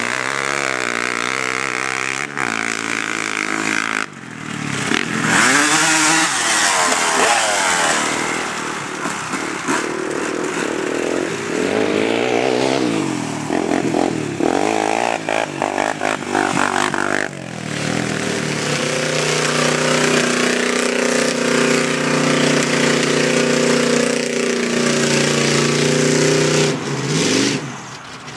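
Off-road vehicle engine revving hard, its pitch rising and falling repeatedly as it is driven through mud. It then runs at steadier high revs, with abrupt breaks between clips.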